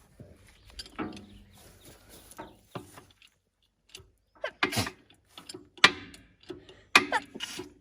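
Irregular metallic clicks and clanks of jack and wheel hardware being worked while a tractor wheel is jacked up and fitted, the loudest knocks coming in the second half.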